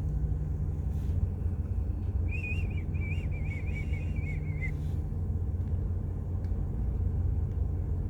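A steady low rumble, with a wavering high whistle lasting about two seconds, starting about two seconds in.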